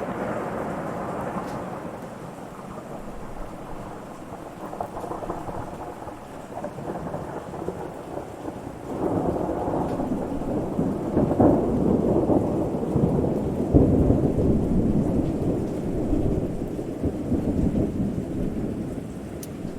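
Rolling thunder over steady rain: one rumble fades away over the first few seconds, then a second long rumble builds about nine seconds in and rolls on to near the end.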